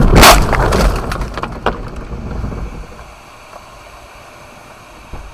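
A car collision picked up by a dash-cam microphone: a loud crash with crunching and cracking at the start that dies away, a single smaller knock a little later, then a low steady hiss.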